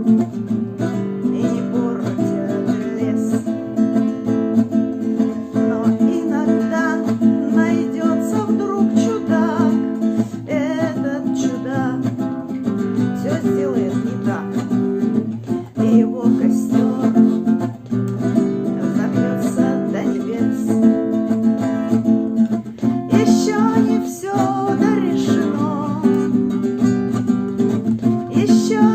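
Acoustic guitar strummed steadily in an eight-stroke strumming pattern (бой восьмерка), accompanying a woman singing the melody in places.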